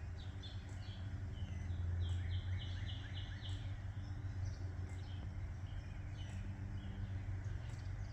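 Several songbirds singing and chirping over a steady low rumble. About two seconds in, one bird gives a quick run of about six short, even notes.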